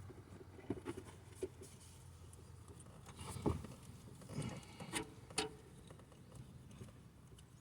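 Scattered light clicks and knocks of hand tools and small parts being handled during work on the engine. The sharpest knock comes about three and a half seconds in, over a faint low hum.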